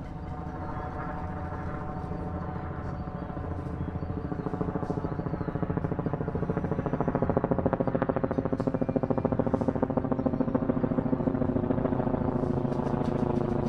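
Helicopter flying by, its rotor beating in a fast, even pulse over the engine. It grows louder through the first half, then holds steady.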